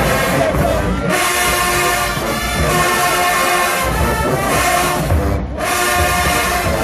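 HBCU marching band playing loud, held brass chords from trombones and trumpets over low drum hits, with a short break in the sound late on.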